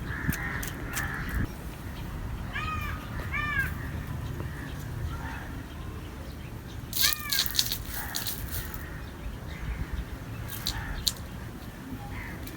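A bird calling three short times, the last well after the first two, with scattered light clicks and knocks around it.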